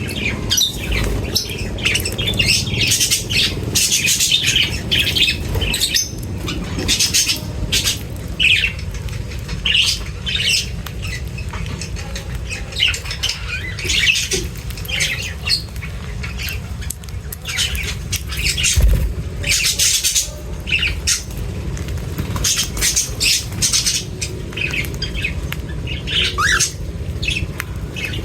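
Several birds squawking and chirping in quick, irregular calls, over a steady low rumble.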